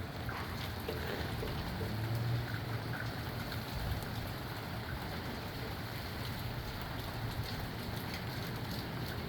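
Steady rain falling in strong, gusty wind, with a low rumble underneath and scattered drop ticks.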